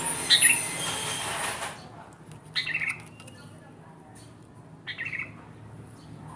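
Kutilang emas bulbul calling: a dense, harsh chattering burst with high thin notes for the first two seconds, then two short chirps about two seconds apart.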